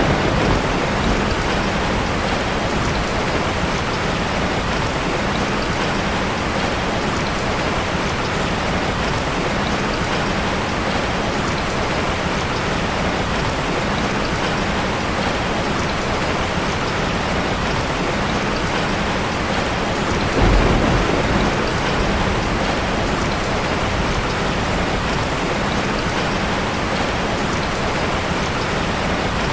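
Heavy rain pouring steadily, a dense even hiss of drops on surfaces. About two-thirds of the way through, a brief low rumble of thunder swells up under the rain.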